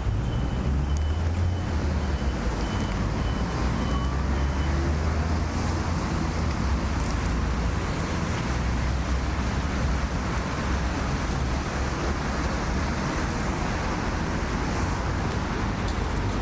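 Steady low rumble of city road traffic. A faint, rapid, high-pitched peeping is heard through the first few seconds.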